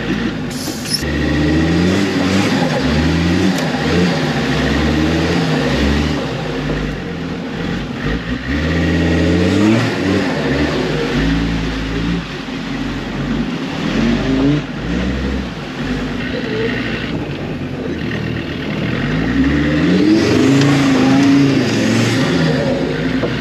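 Off-road competition car's engine revving up and down over and over as it is driven across rough, muddy ground, rising in pitch most strongly near the end.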